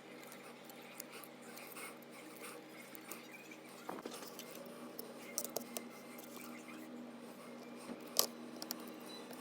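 Faint small clicks and taps of repair tools and phone parts being handled on a bench during an iPhone charging-port repair, over a low steady hum. The sharpest click comes about eight seconds in.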